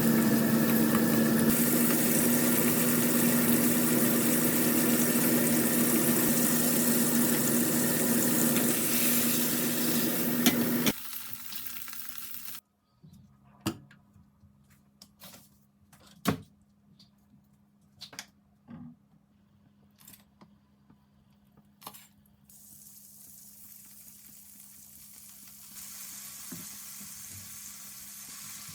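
Kitchen cooking sounds: a loud steady hum with hiss, like a running appliance or range hood over the pan, stops about eleven seconds in. Next come a few scattered clicks and knocks of utensils, then a quiet sizzle of food frying that builds slightly near the end.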